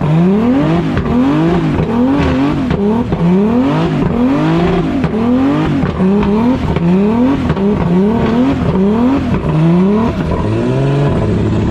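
Turbocharged BMW E46 M3 engine being revved hard through a drift. Its pitch climbs and drops again about every three-quarters of a second as the throttle is worked, then settles to a steadier, lower note near the end.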